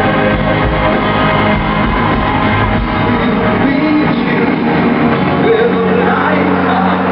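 Live pop-rock band music with singing, performed through a stadium sound system.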